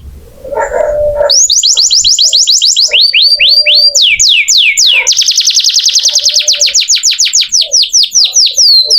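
Domestic canary singing: fast trills of rapidly repeated high notes, each sweeping downward, with the note type changing every second or two. The first second is softer before the loud trills begin.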